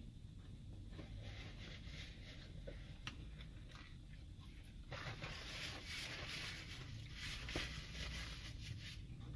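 Close chewing and mouth sounds of someone eating a chicken sandwich, with scattered soft clicks. The sound turns denser and noisier about five seconds in.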